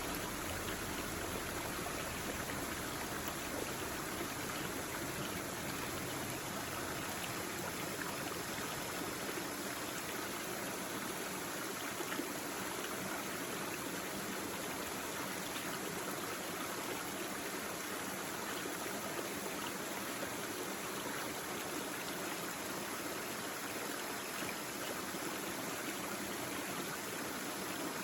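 Small stream babbling steadily over stones, an even rush of flowing water.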